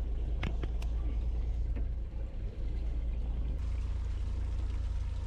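Steady low rumble of a fishing boat's engine, with a few short clicks in the first two seconds.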